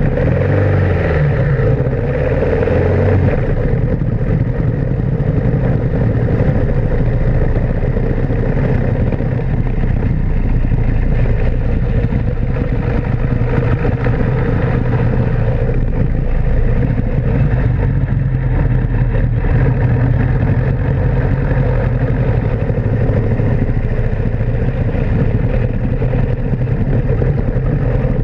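1916 Model T Ford racing car's four-cylinder engine running hard under way, picking up revs in the first few seconds and then holding steady at speed, with road rumble and wind noise.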